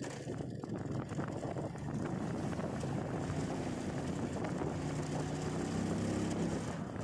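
A motor humming steadily, growing a little stronger in the second half, with wind noise on the microphone.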